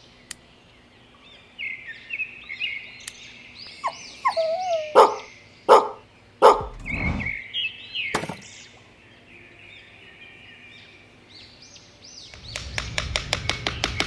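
Birds chirping throughout, with four sharp knocks between about five and eight seconds in as short bamboo sticks are set down on the diorama base. Music with a steady beat comes in near the end.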